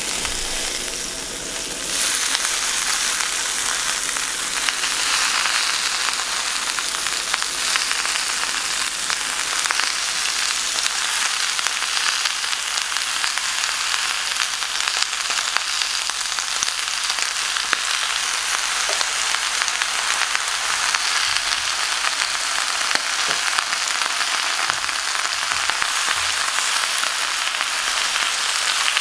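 Spring greens sizzling and crackling in hot oil in a steel frying pan, the sizzle growing louder about two seconds in and then holding steady.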